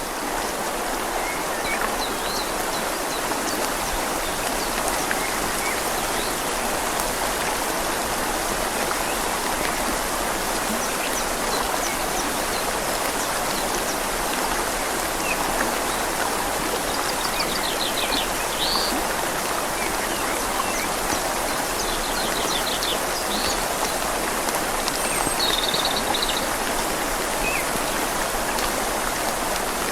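Steady rain falling on leaves over a flowing river, an even hiss with no breaks. In the second half a bird gives a few short, high trills.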